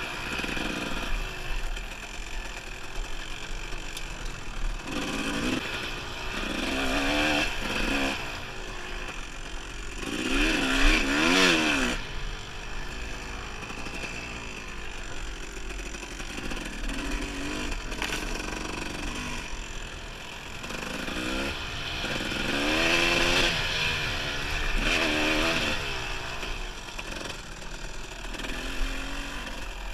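Dirt bike engine being ridden, its pitch rising and falling over and over as the throttle is opened and closed, loudest about ten to twelve seconds in.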